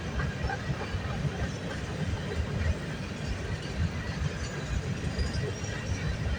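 Freight train of grain hopper cars rolling past, a steady rumble of steel wheels on the rails.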